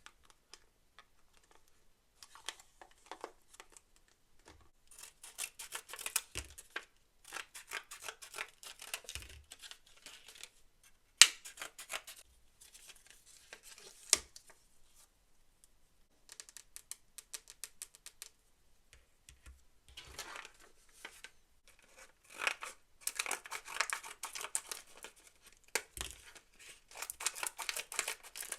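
Toy packaging being opened by hand: bursts of crinkling and tearing with quieter gaps, and two sharp clicks about a third and a half of the way through.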